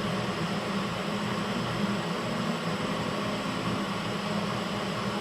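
Steady hiss with a low hum underneath, from machinery running continuously, such as a fan or blower; no distinct knocks or clicks stand out.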